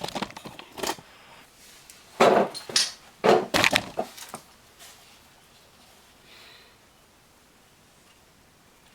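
Knocks and clanks of a new brake rotor being fitted over the rear wheel hub, with two loud clattering bursts about two and three and a half seconds in. After that only faint handling noise.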